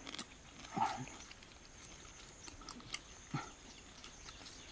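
Mouth sounds of eating fried crickets: small crunching and chewing clicks, with two short low grunts, one about a second in and one near the end.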